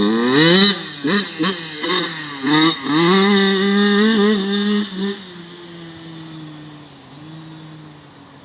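Two-stroke 85cc dirt bike engine revving hard close by, its pitch climbing and dropping several times over the first five seconds. Then it settles into a quieter, steadier drone that slowly falls in pitch as the bike rides away.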